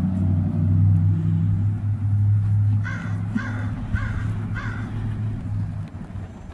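An American crow cawing four times in quick succession, starting about three seconds in, over a low steady rumble.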